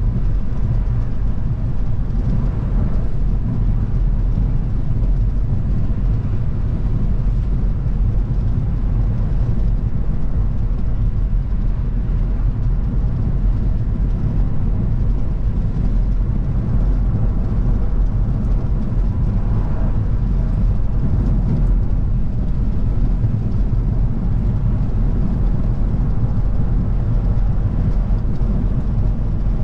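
A car driving at a steady speed, with steady low-pitched engine and road noise throughout.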